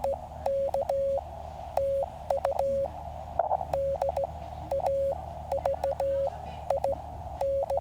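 Morse code (CW) tones from a QCX mini QRP transceiver: a single steady beep keyed on and off in dots and dashes, over the steady hiss of the radio's narrow CW filter.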